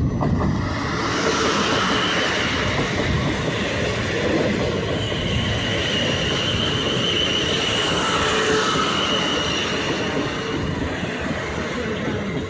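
A train running past on the rails: a steady, loud noise of wheels on track, with a faint high wheel squeal through the middle.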